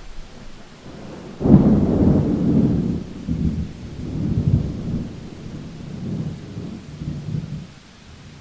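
Thunder over steady rain: a sudden crack of thunder about a second and a half in, rolling on in low rumbles that swell and ebb several times before dying away near the end.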